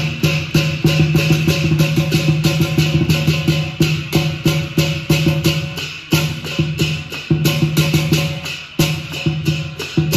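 Chinese lion dance percussion: a big drum beaten fast, with clashing cymbals on every beat. The rhythm drops out briefly about six seconds in and again near the end.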